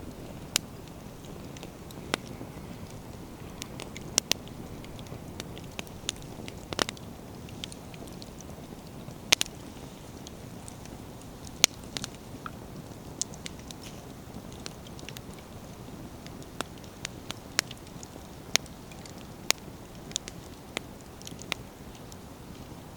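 Wood fire burning, with a steady low rumble of flame and sharp pops and crackles as the firewood splits, about twenty irregular snaps, a couple of them louder.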